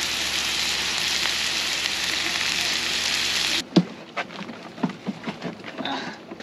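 Onions sizzling in butter in a pan, a steady hiss that cuts off suddenly about three and a half seconds in. A few light clicks and knocks follow.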